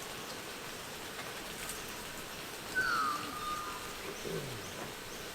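Outdoor ambience with a steady background hiss, and a single bird call about three seconds in: a short whistle that slides down in pitch and then holds briefly.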